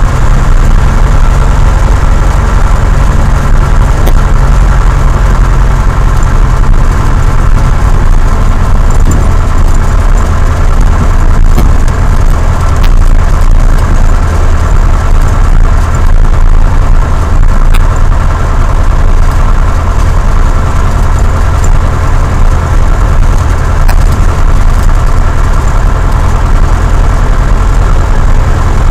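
Cessna 172's piston engine and propeller running at a steady, loud drone with no change in speed.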